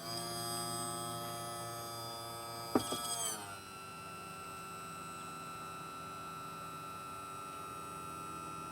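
Electric power trim/tilt pump motor on a 1996 Johnson 70 outboard running with a steady hum, starting with a click. About three seconds in there are a couple of clicks and its pitch rises, then it runs on at a steadier, quieter note. The freshly bled hydraulic system is working smoothly.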